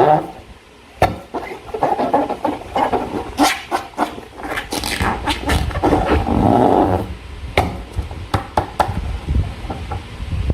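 Slime being squished and worked by hand: wet squelching with crackly, sticky popping and many sharp clicks, in two longer bursts.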